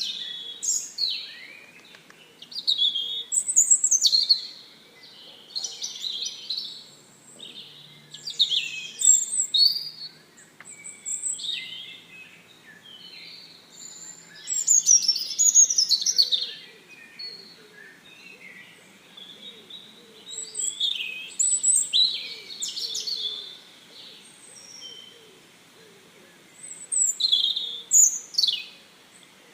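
Songbirds chirping and warbling in short, high phrases that come every few seconds, some of them quick downward-sweeping notes.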